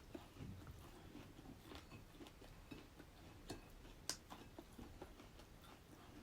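Faint eating sounds of someone eating by hand: quiet chewing with scattered small clicks and taps, the sharpest two at about three and a half and four seconds in.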